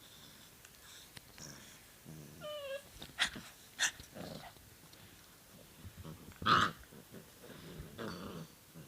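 Basset hound puppies making small growls and whimpers. There is a short whine a couple of seconds in and a louder, sharper yip about six and a half seconds in.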